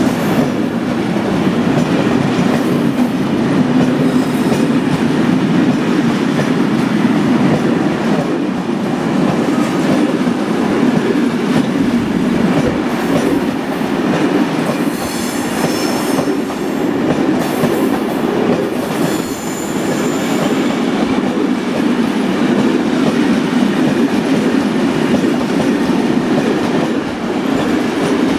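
Freight train wagons passing close at speed behind an electric locomotive: a steady loud rumble of wheels on rail with clickety-clack over the joints, and a few brief high wheel squeals near the middle.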